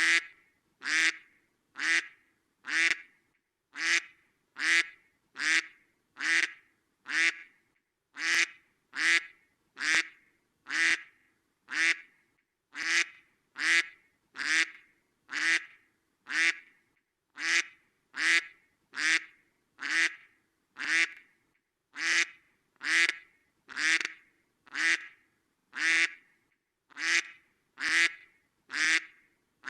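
A duck quacking, single short quacks repeated at an even pace of about one a second, each one much like the last, with silence between them.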